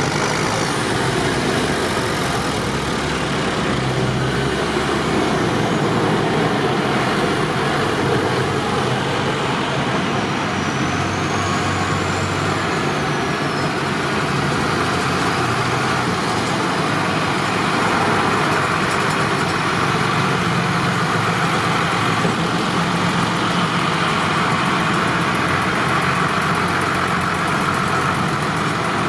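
Tractor engines running steadily, their low note shifting now and then.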